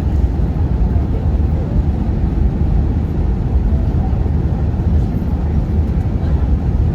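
Steady low roar inside a passenger airliner's cabin: engine and airflow noise with a deep rumble, holding even throughout.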